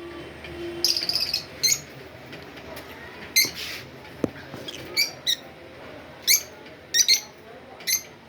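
Budgerigars chirping: about ten short, sharp high calls, some in quick pairs, spread unevenly through the few seconds.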